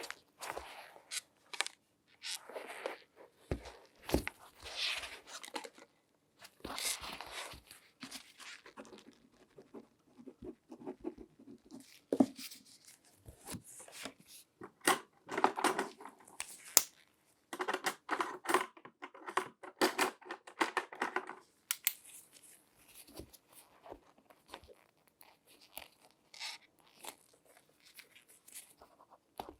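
Close-miked latex-gloved hands handling and rubbing objects: intermittent scratchy, crinkling rustles in short bursts, with a few sharp clicks.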